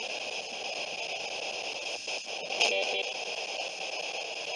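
Spirit box radio sweeping through stations: steady static hiss with faint clicks as it jumps channels, and a brief fragment of broadcast sound about two and a half seconds in.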